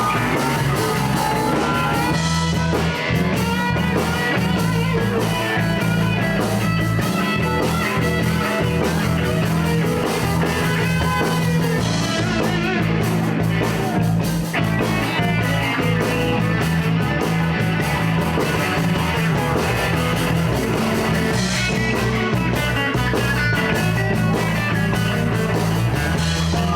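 Live blues band playing an instrumental passage: electric guitar over bass and drums.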